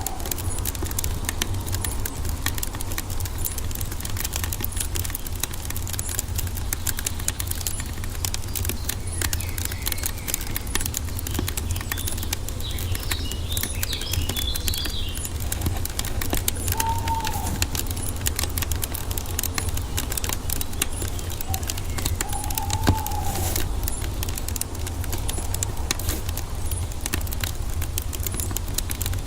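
Wood fire crackling with dense, steady pops over a low rumble. A bird calls a few short notes, and there is a brief spell of higher chirping about halfway through.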